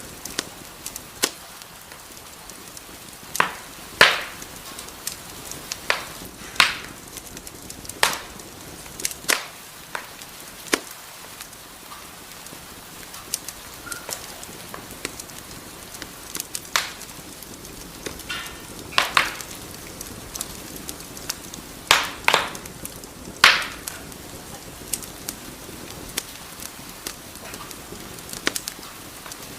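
Wood fire burning in a fireplace: a steady soft hiss broken by irregular sharp crackles and pops, the loudest clustered a few seconds in and again about three-quarters through.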